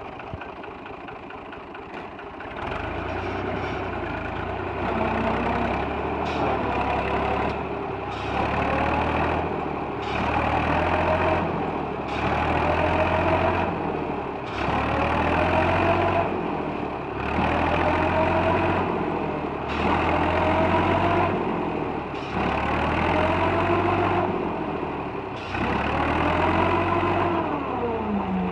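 Fiat 480 tractor's diesel engine running under load, getting louder about two and a half seconds in. Its pitch then rises and falls back over and over, about once every two seconds.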